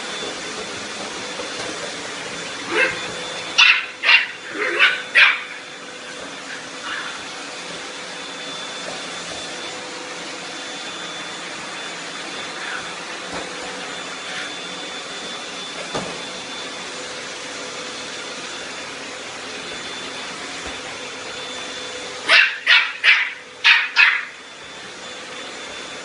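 A Bolonka, a small dog, barking in two quick bouts of about five or six barks, one a few seconds in and one near the end. Under the barks a vacuum cleaner runs steadily.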